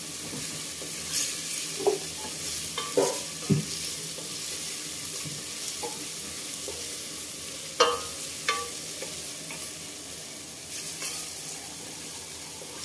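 Onion, garlic, ginger, cinnamon and star anise sizzling in hot oil in a stainless steel pot as a wooden spatula stirs them. Short scrapes and knocks of the spatula against the pot come now and then over the steady hiss of the frying.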